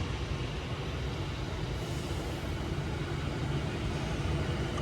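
Steady low rumble of railway station background noise with a low hum underneath, unchanging throughout.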